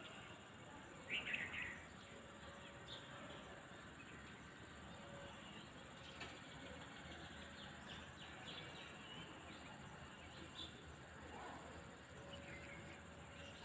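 Quiet countryside ambience with small birds chirping now and then. A short flurry of chirps comes about a second in, and fainter calls follow later.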